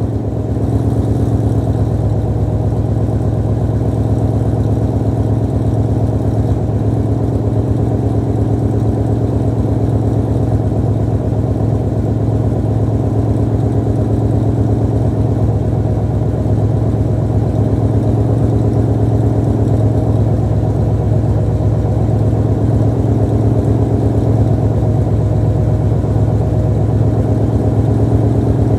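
2016 Ford Mustang GT's 5.0-litre Coyote V8 idling steadily through long-tube headers, an off-road X-pipe and a 3-inch Magnaflow Competition cat-back, still warming up after a cold start. The idle stays even and unrevved, growing slightly louder about a second in.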